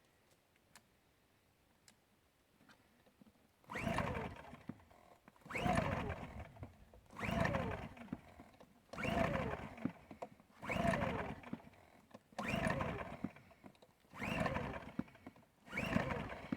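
Champion 2000 W dual-fuel inverter generator being pull-started on propane with the choke on: eight recoil-starter pulls, each a whirring crank that falls away, about every second and a half to two seconds after a few quiet seconds. The engine never catches: a no-start.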